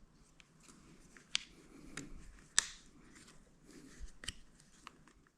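Scattered small clicks and light rustling of hands handling small parts, a few sharp ticks standing out, the loudest about two and a half seconds in.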